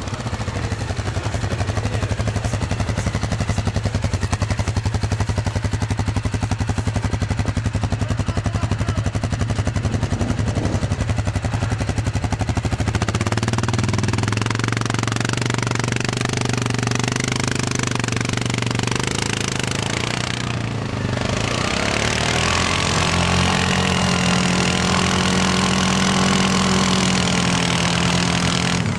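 ATV engine running as the quad is ridden along the trail, with its pitch shifting as the throttle changes about halfway through and again later on.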